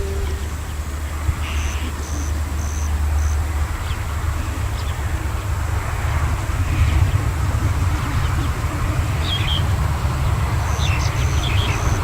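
Strong wind buffeting the microphone in a gusting low rumble that thickens after a few seconds, with birds chirping now and then over it.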